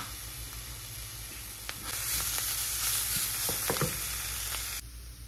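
Onions, curry leaves and green chillies sizzling in hot coconut oil in a nonstick pan as ginger garlic paste goes in, with a wooden spatula stirring and scraping through them. The sizzle gets louder about two seconds in and drops abruptly near the end.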